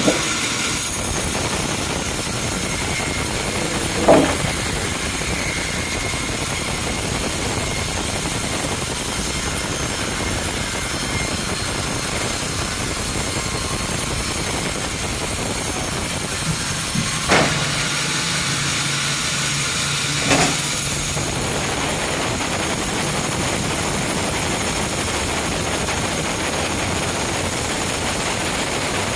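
Sawmill machinery running steadily with a constant mechanical noise. A sharp knock comes about four seconds in. Later two knocks about three seconds apart bracket a low hum that starts with the first knock and stops with the second.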